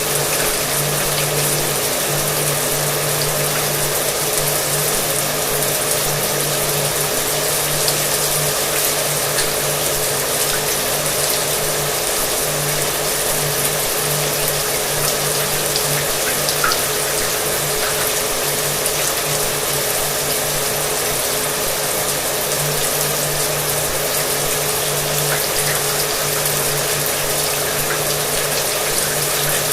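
Shower water running steadily, with a hair dryer's motor and fan running in the background as a constant low hum.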